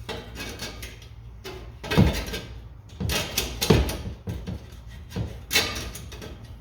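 Metal clanks and knocks, several separate strikes a second or so apart, as an exhaust tip and its band clamp are worked onto the end pipe.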